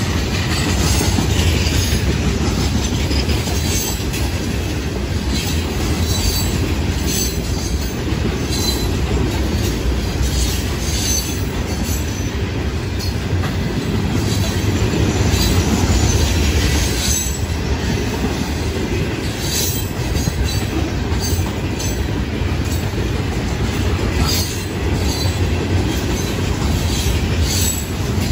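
Florida East Coast Railway rock train's loaded hopper cars rolling past: a steady low rumble of steel wheels on rail, with frequent short high-pitched squeaks and clicks from the wheels.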